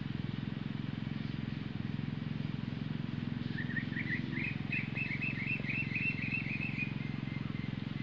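A steady low rumble throughout. About halfway in, a small bird gives a quick run of about a dozen chirps that rise in pitch and then level off.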